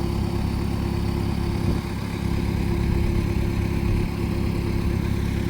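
Motor vehicle engine running steadily, heard from inside the cab as a low drone with a constant hum over it.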